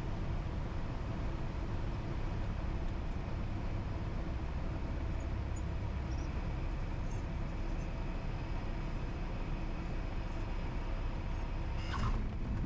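Cessna 172's four-cylinder Lycoming engine and propeller droning steadily at reduced power, heard from inside the cabin, on short final just before touchdown.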